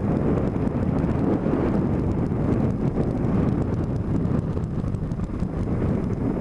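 Steady wind rush on a vehicle-mounted camera's microphone over the road noise of a vehicle travelling along a road.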